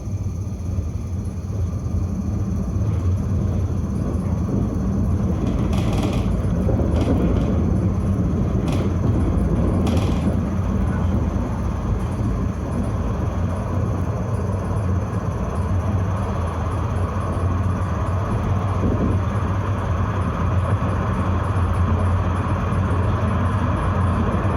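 Tram running along its track with a steady low rumble that builds over the first couple of seconds as it picks up speed. A few brief, high-pitched scrapes or squeals from the wheels and rails come between about six and ten seconds in.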